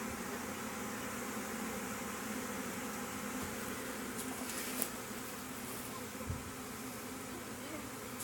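Honeybee swarm buzzing in a steady, dense hum, many bees fanning their wings. Two faint clicks come at about five and six seconds in.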